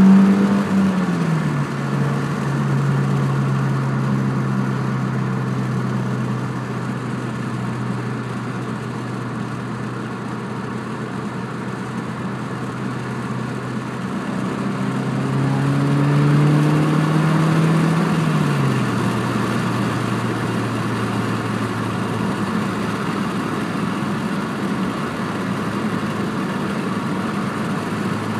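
2006 Subaru Impreza's flat-four engine through a TurboXS aftermarket exhaust, idling steadily. It is blipped at the start and settles back to idle. About halfway through it is revved and held for a few seconds, then drops back to idle.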